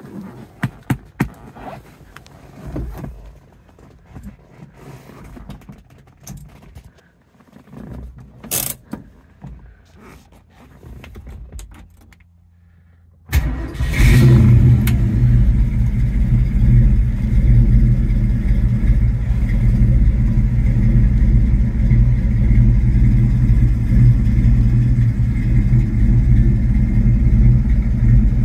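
A scatter of clicks and knocks, then about halfway through the 1967 Mustang GT S-Code's 390 cubic-inch big-block V8 fires up suddenly and settles into a steady idle.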